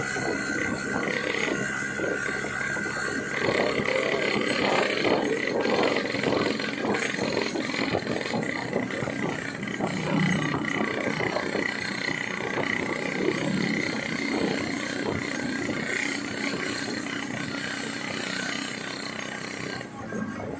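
Yamaha RX-King's single-cylinder two-stroke engine running through a gutted, open exhaust while the bike is ridden, with a steady mix of engine and wind noise.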